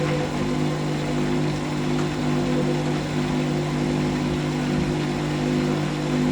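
Hoover SIX Inter@ct AAA Whisper 1600 washing machine's motor spinning the drum at a steady speed during an intermediate spin: an even motor hum with a few higher steady tones above it.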